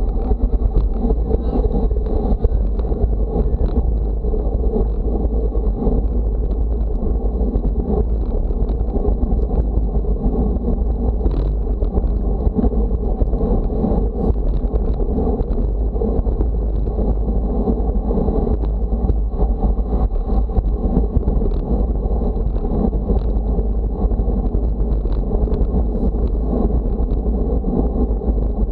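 Steady wind rumble buffeting the microphone, heavy and low, with a faint constant high whine throughout.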